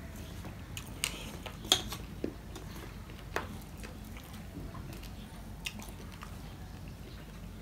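Close-miked eating sounds of rice and fish curry eaten by hand: chewing, with a few sharp, wet mouth clicks and smacks spaced irregularly, the loudest about two seconds in.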